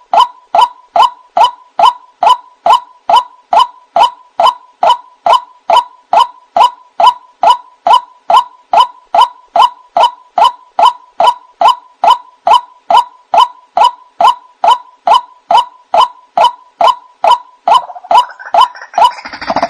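White-breasted waterhen calling a long, steady series of identical short 'kwak' notes, a little over two a second. Near the end a denser, harsher jumble of overlapping calls joins in. This is the ruak-ruak call used as a night-time lure for the species.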